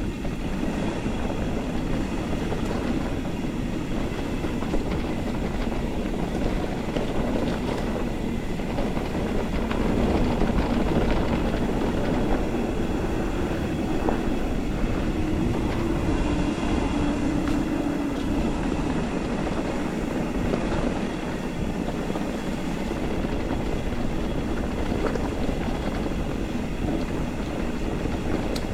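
Mountain bike riding along a rough forest trail: a continuous rumble of tyres on the ground mixed with the rattle of the bike.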